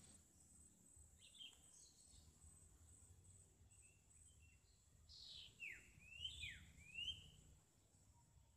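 Faint birdsong: scattered short chirps, then a louder run of quick down-slurred and up-slurred whistled calls about five to seven seconds in. A faint steady high-pitched tone runs underneath.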